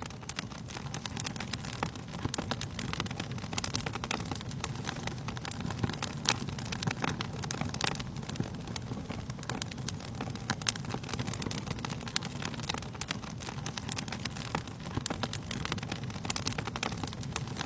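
Wood fire burning in a fireplace, crackling and popping irregularly over a steady low rush of flame.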